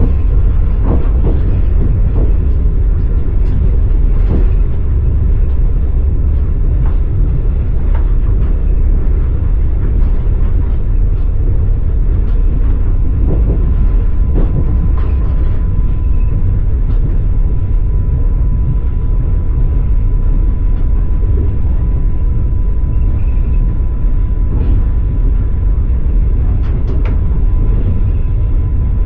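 Passenger train carriage rolling on the rails, heard from inside: a loud, steady low rumble from the wheels and running gear with scattered faint clicks of the wheels over the track, and a thin steady whine underneath.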